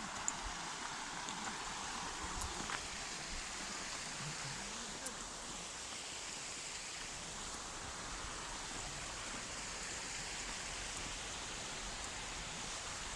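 River water rushing steadily over rocks, a continuous even hiss.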